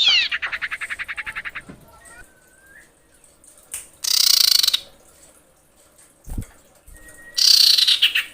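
Common iora (cipoh) calls, sold as a female calling to a male: a falling whistle runs straight into a fast trill of about a dozen notes a second. Two harsh, hissing calls follow, about 4 s and 7.5 s in.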